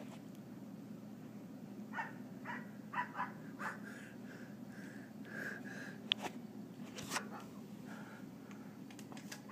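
Two cats in a territorial standoff, with faint short hisses about two to four seconds in, then a drawn-out, wavering yowl.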